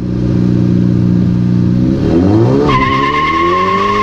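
A car engine running steadily, then revving up about two seconds in, and a sustained high tyre squeal starting shortly after and holding over the engine.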